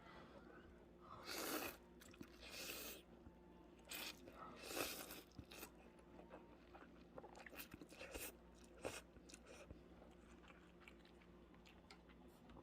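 Close-up eating of beef rib pho: several breathy slurps of noodles and broth in the first five seconds, then quieter chewing with small wet clicks.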